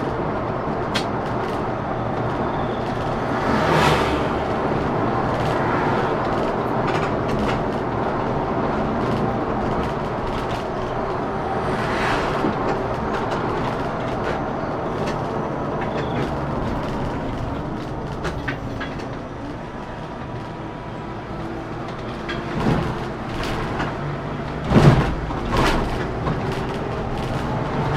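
Scania K410CB coach under way: a steady running drone of engine and road noise, with frequent small clicks and rattles and a few heavier thumps over bumps, the loudest about three-quarters of the way through.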